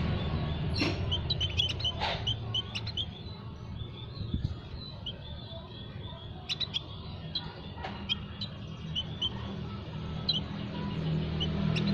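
Small aviary birds chirping: many short, high chirps repeated irregularly, with a steady low hum underneath.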